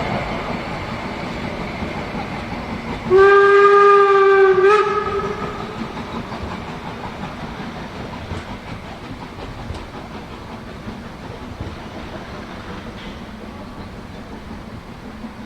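Harz narrow-gauge train running, with one whistle blast of about a second and a half roughly three seconds in. The train's running sound fades steadily.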